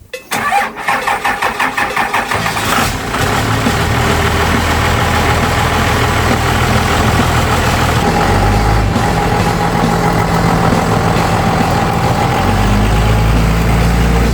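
Diesel pickup truck engine cranking and firing up, uneven pulses for the first couple of seconds as it catches, then running steadily. Its note shifts about eight seconds in and again near the end.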